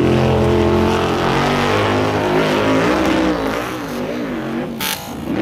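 A vehicle engine revving, loud and steady at first, then rising and falling in pitch, with a sharp click near the end.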